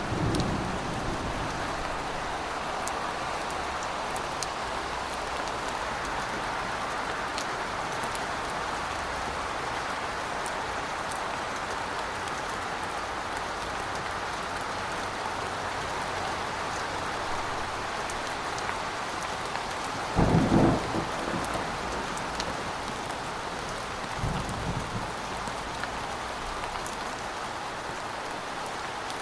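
Thunderstorm: steady rain with thunder. A low rumble fades out at the start, a loud thunderclap comes about two-thirds of the way through, and a smaller rumble follows a few seconds later.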